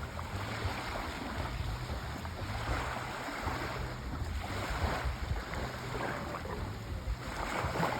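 Sea waves washing ashore, swelling and receding in surges every two to three seconds over a low, steady rumble.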